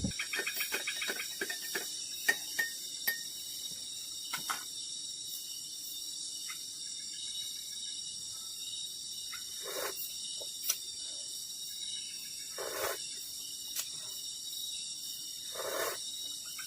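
Steady high-pitched chorus of crickets and other insects at dusk, with scattered short knocks and a few brief rustles.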